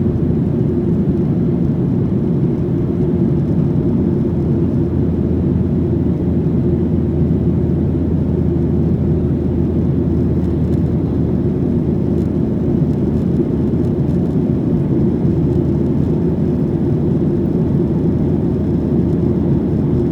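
Steady low cabin drone of a Boeing 737-800 in flight, its CFM56-7B engines and airflow heard from inside the cabin.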